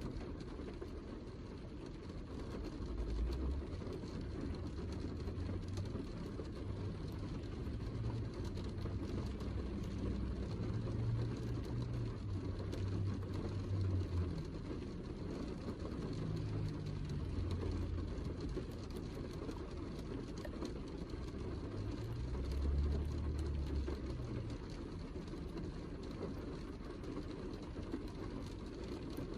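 Heavy rain falling steadily, a dense hiss of drops, with a low rumble that swells and fades underneath.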